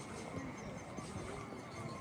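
Busy park ambience: a murmur of many people talking at a distance, with footsteps and small knocks mixed in.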